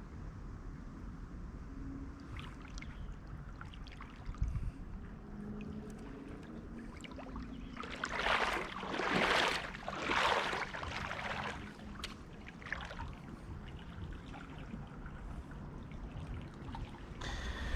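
Creek water running steadily, with three louder splashing swishes of water about eight to eleven seconds in.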